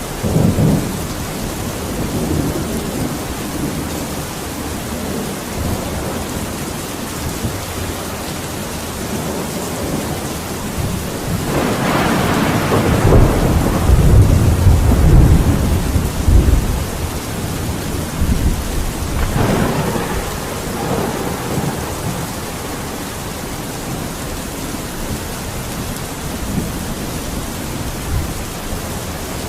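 Steady heavy rain with rolling thunder: a big peal about twelve seconds in that rumbles on for several seconds, and a shorter roll of thunder about twenty seconds in.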